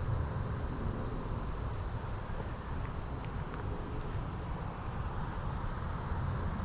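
Outdoor city ambience: a steady low rumble of distant road traffic, with a constant high-pitched drone of insects. A louder passing vehicle fades out at the start.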